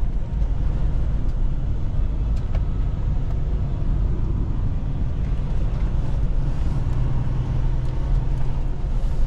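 Semi-truck engine and road noise heard from inside the cab while driving: a steady low rumble with a constant engine drone.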